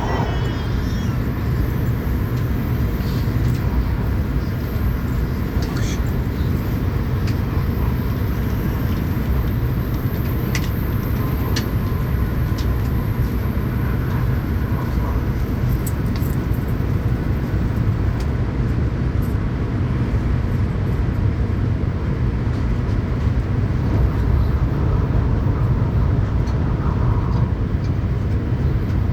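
Tokaido Shinkansen train running at speed, heard from inside the passenger cabin: a steady low rumble of wheels on rail and air rushing past, with a few faint clicks.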